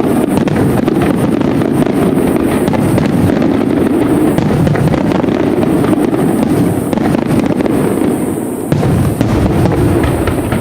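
A fireworks barrage with many shells bursting in quick succession, the bangs and crackles running together into a continuous loud rumble. It eases briefly about eight and a half seconds in, then picks up again.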